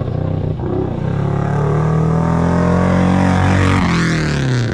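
Classic rally car engine running hard at high revs as the car drives by, its pitch dropping near the end as it passes.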